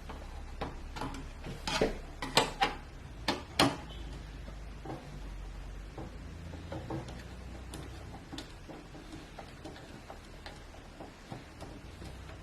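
A handful of sharp clicks and taps from a screwdriver working the spring-loaded mounting screws of a CPU cooler, bunched in the first few seconds and then thinning to faint ticks, over a low steady hum.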